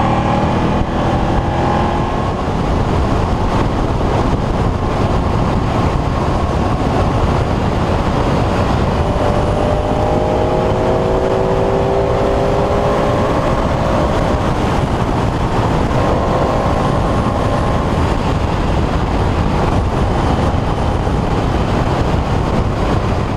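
Sport motorcycle engine running at road speed under heavy wind rush, its pitch climbing slowly for a few seconds in the middle.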